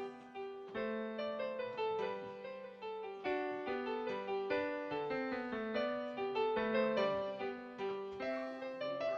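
Background piano music: a gentle melody over chords, notes struck several times a second.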